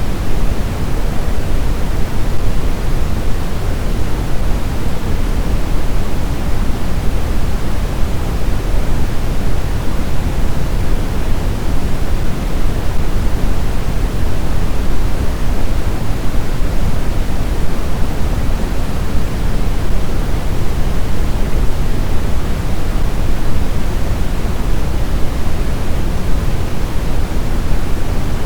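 Snowstorm wind ambience: a steady, even rushing, heaviest in the low end, with no gusts, whistles or breaks.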